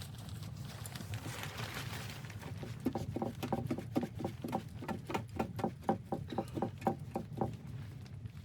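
A quick, even series of knocks, about four a second, starting about three seconds in and stopping near the end, over a steady low rumble.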